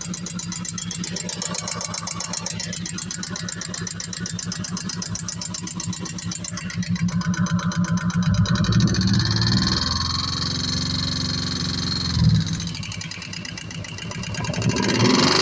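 Kawasaki Vulcan 1700 Vaquero's V-twin engine running with a fast, even beat; about seven seconds in the revs rise and it runs louder. A single thump about twelve seconds in.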